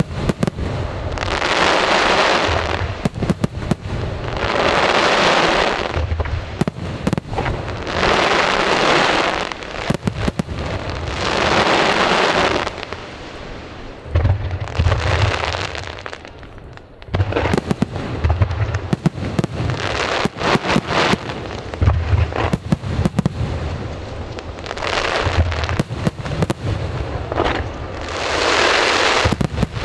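Aerial fireworks display: many sharp bangs and deep booms of shells bursting, with long crackling, sizzling bursts of glitter effects every three to four seconds.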